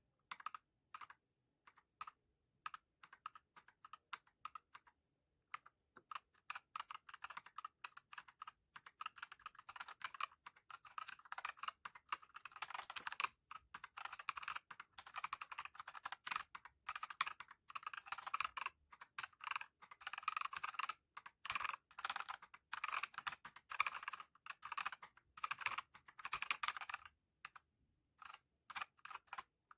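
Typing on a Redragon K596 mechanical keyboard with Akko CS Lavender Purple tactile switches and HyperX PBT pudding keycaps. Scattered keystrokes at first, with a short pause, then fast continuous typing that slows near the end.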